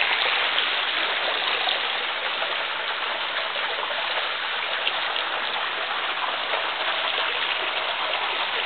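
Small mountain waterfall splashing into its pool: a steady, even rush of falling water.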